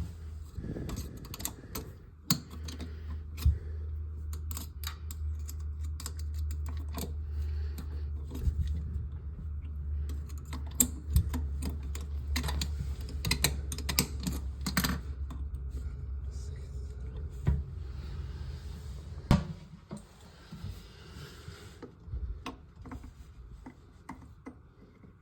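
Irregular clicks and light clatter of small hard parts and tools being handled while a washer is fitted into a toilet shutoff valve, over a low steady rumble that stops about two-thirds of the way through.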